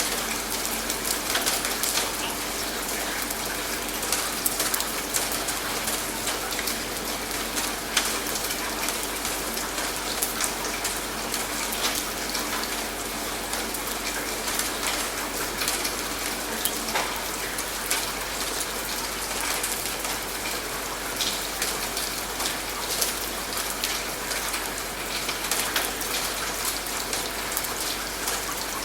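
Steady rain falling, with many separate drops ticking sharply against a surface.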